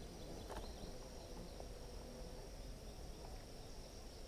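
Faint buzzing of honey bees at an opened hive, with a steady high-pitched whine running through it. A light click about half a second in, as a wooden frame is handled.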